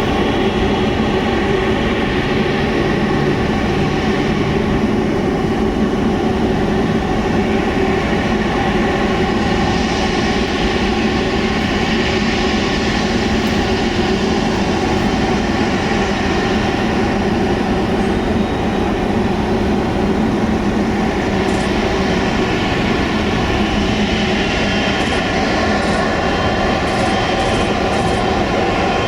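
Jet airliner engines running steadily at low power: a continuous loud drone with several fixed tones over a rushing noise.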